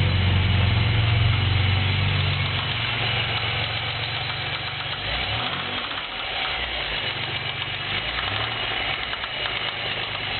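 Pontiac Grand Prix 3800 V6 engine running with a rhythmic knock from a spun rod bearing. The engine note shifts a few times.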